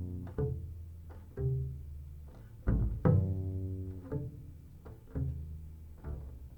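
Live jazz trio music, with low plucked double bass notes to the fore, sounded about once a second and each left ringing to fade.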